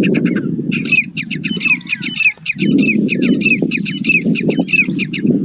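Grey francolin (teetar) calling: a fast run of repeated sharp notes, about three a second, starting about a second in and running to near the end. A steady low rumble lies under the calls.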